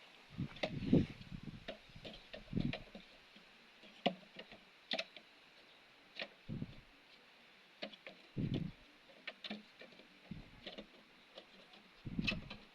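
Wooden Langstroth hive frames being handled and fitted into the hive box: irregular light wooden clicks and knocks, with a few dull thumps as frames are set down.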